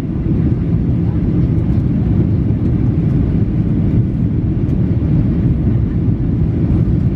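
Steady cabin rumble of a Boeing 737-800 on approach: engine and airflow noise, loud and even, heavy in the low end.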